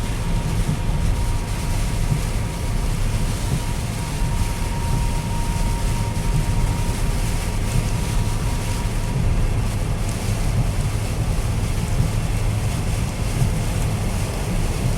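Steady rushing noise with wind buffeting the microphone, a heavy low rumble.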